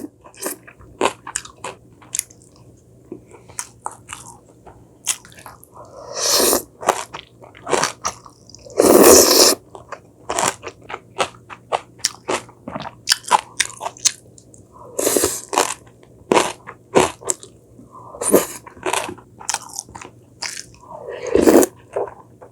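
A person chewing and biting crunchy food close to the microphone: a steady run of sharp, crisp crunches, with a few longer, louder crunching spells.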